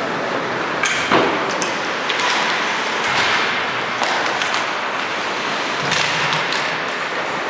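Basketball game play in a gym: a ball bouncing on the court with sharp thuds and taps over a steady noisy background of players and crowd.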